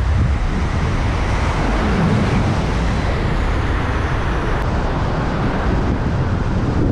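Loud, steady rush of wind buffeting the microphone from fast airflow during a speed-wing flight.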